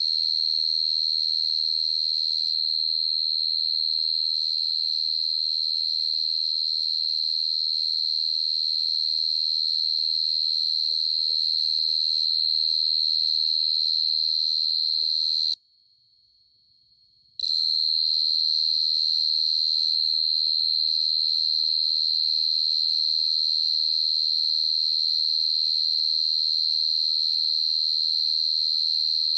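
A steady, shrill high-pitched whine on one unchanging tone. It stops for about two seconds midway, then starts again.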